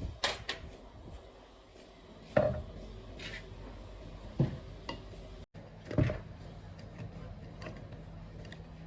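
Metal tools and engine parts being handled on a work surface: scattered clinks and knocks, the loudest about two, four and six seconds in.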